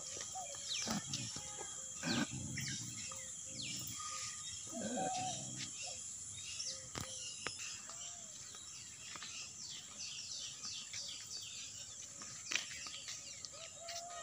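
Birds calling with many quick downward-sweeping chirps, over a steady high-pitched hiss.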